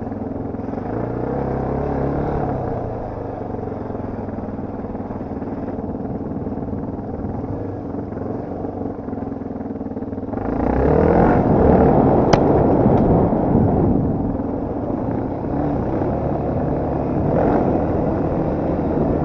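Off-road motorcycle engine running with changing throttle. About ten seconds in it gets louder and rougher for a few seconds, with a single sharp click in the loudest part.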